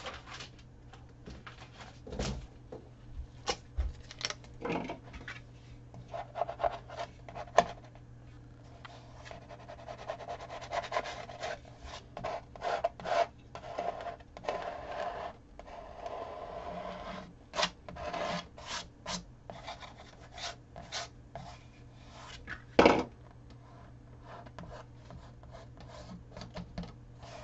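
Rubbing and scraping over vinyl transfer tape on a stretched canvas as the vinyl is worked down and lifted. It comes as a series of short strokes, with a longer stretch of steady rubbing in the middle.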